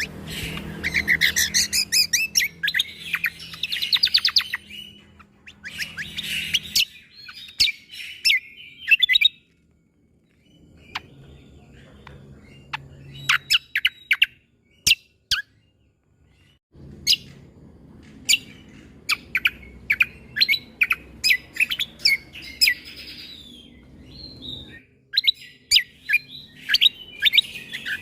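Recorded song of a cucak kombo (kecial kombo): bursts of rapid, sharp staccato notes, the 'shot' (tembakan) phrases, mixed with short chirpy runs and broken by brief pauses. A low background hum underneath stops and starts abruptly several times.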